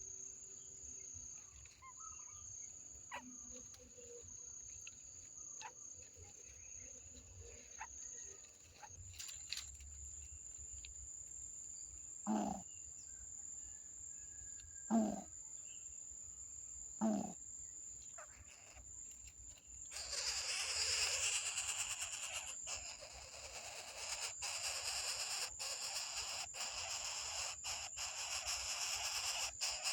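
Outdoor insect chorus: a steady high-pitched cricket-like drone. Three short low animal calls are heard past the middle, and about two-thirds of the way through a loud, even hiss sets in and runs on.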